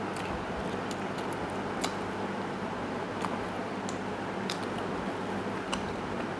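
A person eating soft rice and chicken stew close to the microphone: wet chewing with scattered short clicks, over a steady low hum.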